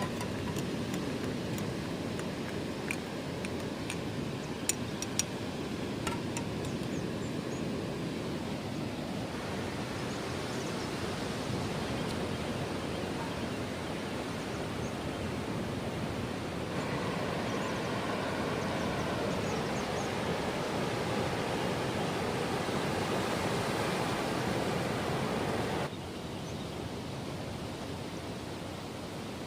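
Steady rushing night ambience at a beach campsite, with a few sharp ticks in the first six seconds. The sound changes suddenly about nine, seventeen and twenty-six seconds in, as at cuts between shots.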